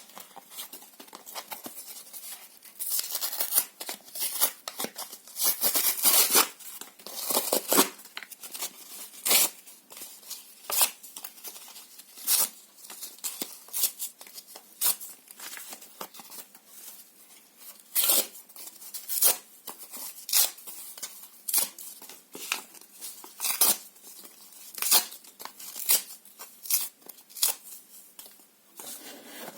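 Paper being torn by hand: long, drawn-out rips in the first several seconds, then a run of short, sharp tears about once a second.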